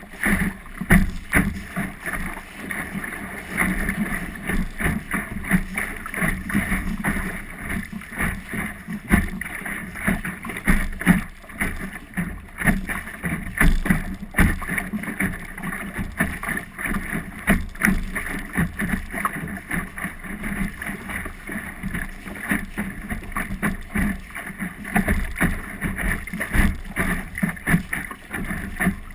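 Small sailing dinghy underway: water splashing and knocking against the hull in a steady stream of short slaps, with wind buffeting the microphone.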